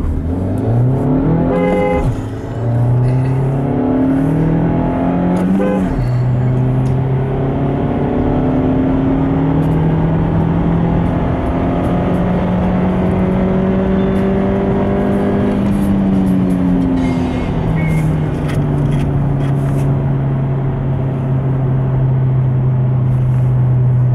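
Seat Leon FR's 1.4 TSI 125 hp turbocharged four-cylinder petrol engine under hard acceleration through a manual gearbox. The revs climb and drop at quick upshifts about two and six seconds in, then pull up slowly in a higher gear, drop again at about sixteen seconds and settle into a steady drone.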